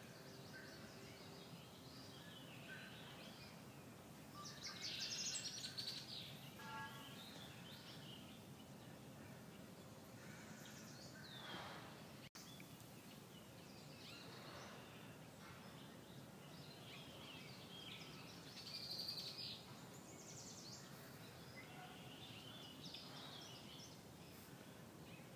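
Wild birds chirping and calling in scattered short bursts, loudest about five seconds in and again near nineteen seconds, over a faint steady outdoor background noise.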